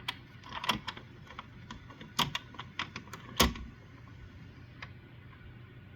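A quick, irregular run of about a dozen sharp clicks and knocks over the first three and a half seconds, the last one the loudest, then only a faint low hum.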